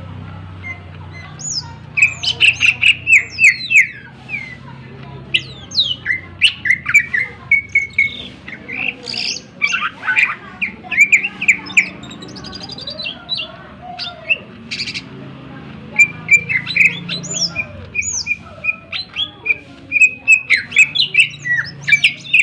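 Green leafbird (cucak ijo) singing a fast, varied song of sharp chirps, down-slurred whistles and rapid trills, with phrases mimicked from other birds woven in.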